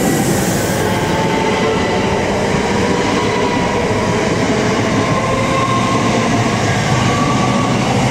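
c2c Class 357 Electrostar electric multiple units running past at close range, with a steady rumble of wheels on track and a traction-motor whine that rises slowly in pitch as the train picks up speed.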